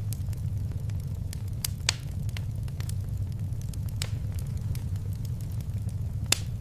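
Fireplace fire crackling: a steady low rumble of flames under frequent small sharp pops, with louder pops about two seconds in, about four seconds in and near the end.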